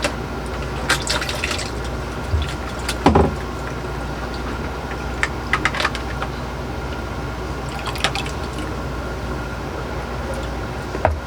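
Water running and dripping out of a water maker's pre-filter housing into a small bucket, with scattered knocks and clicks from handling the housing, over a steady hum.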